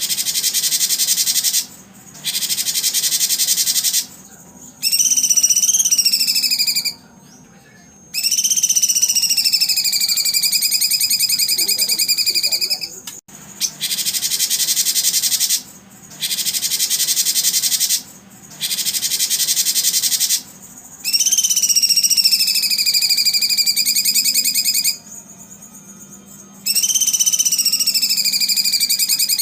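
Repeated bursts of rapid, high, buzzy birdsong trills, each about one and a half to two seconds long with short gaps between them. Several bursts carry a loud whistled note that dips and then levels off, with a lower echoing tone beneath it.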